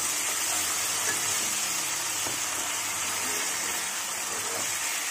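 Wet spice paste (masala) sizzling in a non-stick wok with a steady hiss as it is stirred with a metal spatula, with a few faint scrapes. The masala is being fried down (kosha) after a small splash of water.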